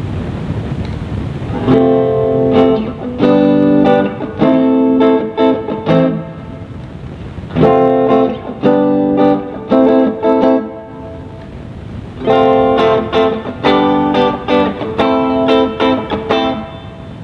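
Kramer custom electric guitar being played in short phrases of chords and single notes, with brief pauses between them. The first couple of seconds are only a steady hiss before the playing starts.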